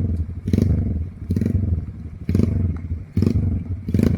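Trail motorcycle engine pulling at low revs on a slick, rocky, muddy climb. It comes in sharp, clattering pulses of power about every second over a steady low drone.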